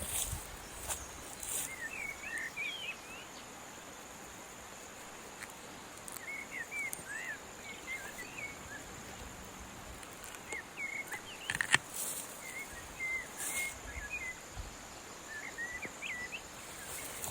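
Small birds chirping in short scattered bursts over a steady high-pitched insect drone, with a sharp click about twelve seconds in.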